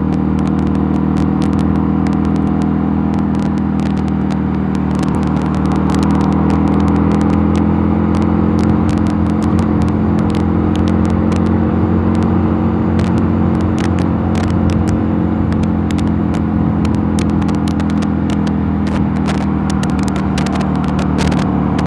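Mondial Nevada 250 motorcycle engine running at a steady cruising speed, its pitch drifting only slightly, with many brief clicks over it.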